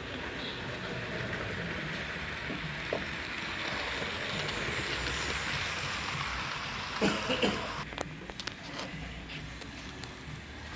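Model train running along its track, the running noise swelling and fading as it passes, with a few sharp clicks near the end.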